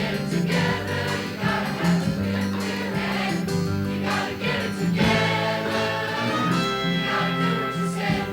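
Gospel-style music: a choir singing over band accompaniment with a steady, repeating bass line.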